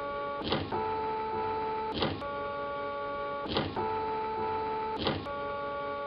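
3D printer's stepper motors whining as the print head moves, a set of steady tones that shifts to a new pitch about every second and a half, with a short rattle at each change.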